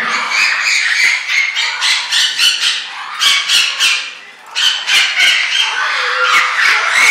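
A flock of birds squawking and chattering at once, a dense din of overlapping calls that briefly thins out a little past four seconds in, then picks up again.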